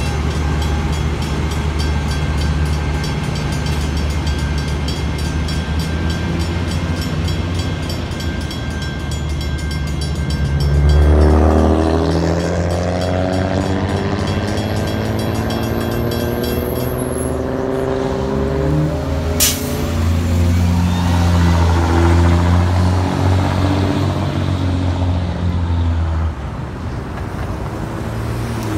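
Freight train passing over a grade crossing with its diesel locomotive engine rumbling and the crossing bell ringing in a rapid, even pattern. The bell stops about two-thirds of the way through, and road vehicles then pass and pull away.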